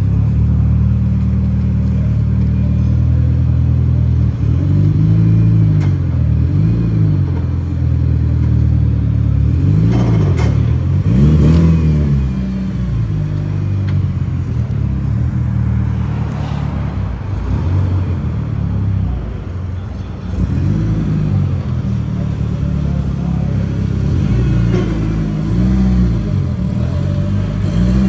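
A car engine idling, revved in short blips several times so that its pitch rises and falls.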